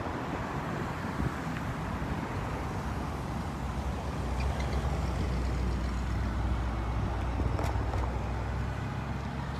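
Parade of cars and trucks driving slowly past on the road. One vehicle's low engine rumble swells in the middle and fades again near the end.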